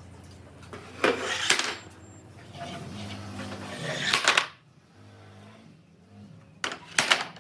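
Three bursts of clattering and knocking, about a second in, around four seconds in and near the end, with a low hum between them: wood and tools being handled in a workshop.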